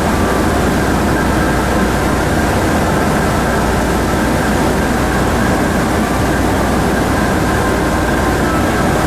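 Car ferry's engines droning steadily, heard on board, with a constant rushing noise and faint steady hum tones over the low rumble.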